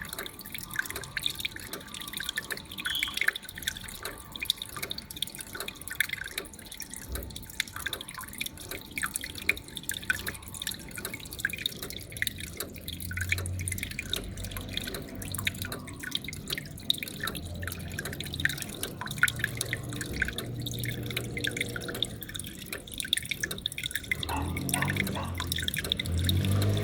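Water from an aquarium's waterfall feature dripping and splashing, a quick uneven patter of small drops falling into the tank.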